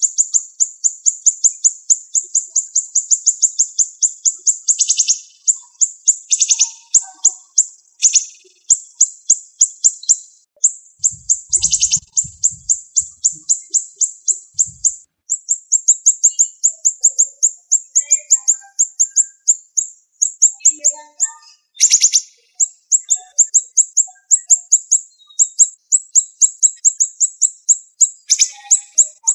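Siri-siri bird singing a fast, high-pitched run of tightly packed chirps, broken by several louder, sharp calls: the rapid 'tembakan' (shooting) song used as masteran to train songbirds.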